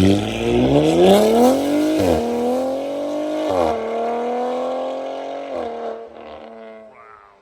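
Audi RS5's twin-turbo V6, running through 034 Motorsport downpipes and an AWE track exhaust, accelerating hard. Its pitch climbs and drops back with each of about three upshifts, then the car fades into the distance.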